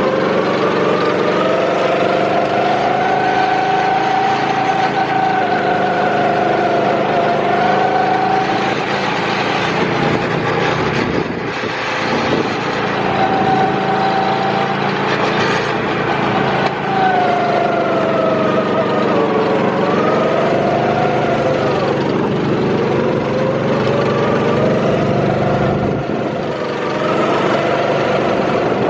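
Small go-kart engine running, its pitch rising and falling as the throttle is opened and eased around the track.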